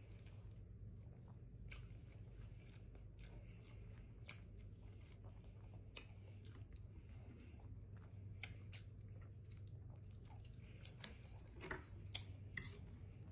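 A person chewing a mouthful of buffalo catfish sandwich close to the microphone: faint, irregular wet mouth clicks and soft crunches, over a steady low hum.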